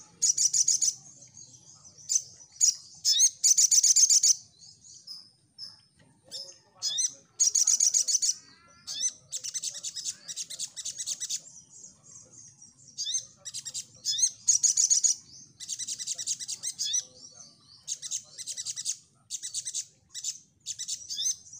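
Crimson sunbird (sogon) singing: bursts of rapid, high-pitched trilled chirps, each under a second long, repeated over and over with short pauses between them.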